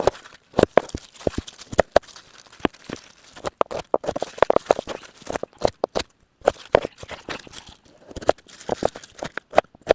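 Irregular crisp crunching and clicking: many short sharp sounds in quick, uneven succession, denser around the middle.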